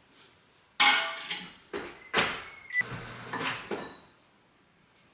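Kitchen handling noises: a sharp knock and clatter like a door or cupboard being opened and shut, with dishes handled, then a thin high tone lasting under a second about two seconds in, and more knocks until about four seconds in.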